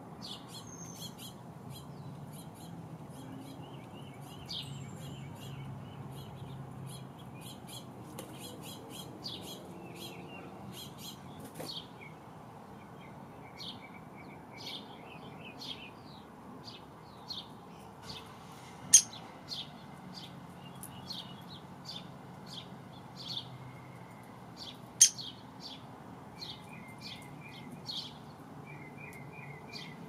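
Small birds chirping, many short high calls and chirps overlapping, over a low steady hum. Two sharp, loud clicks stand out in the second half, about six seconds apart.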